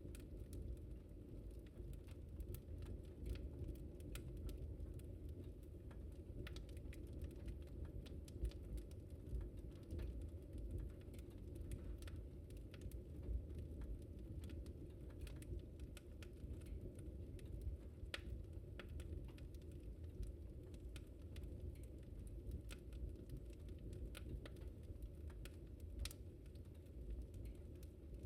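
Wood fire burning in a fireplace, with a steady low rumble and irregular sharp crackles and pops scattered throughout.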